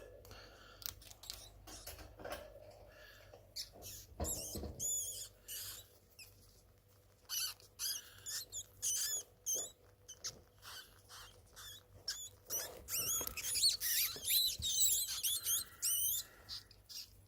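A small rodent squeaking: rapid, high-pitched wavering squeaks that come in bunches about 4 s in and again from about 12 to 16 s in, with scattered small clicks between them.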